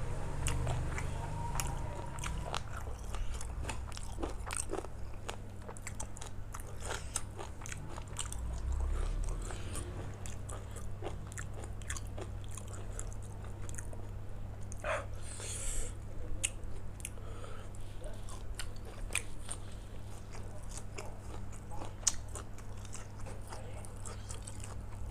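A person chewing and biting food close to the microphone, with many short crisp crunching bites, over a steady low hum.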